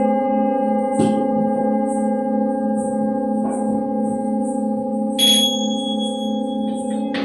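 Singing bowls and a gong ringing on with several overlapping steady tones, struck again about a second in and once more midway. A small bell or chime is struck about five seconds in with a bright high ring. Faint high ticks sound about twice a second throughout.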